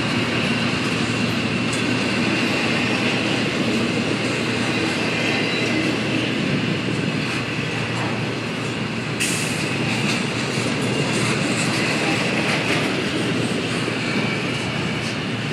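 Double-stack container freight train's well cars rolling past: a steady rumble and clatter of steel wheels on the rails, with a thin, high wheel squeal running under it.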